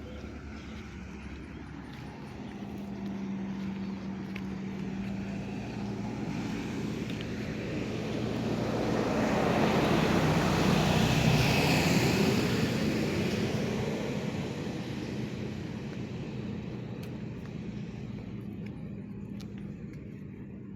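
An aircraft flying over, its noise swelling slowly to a peak about halfway through and then fading away.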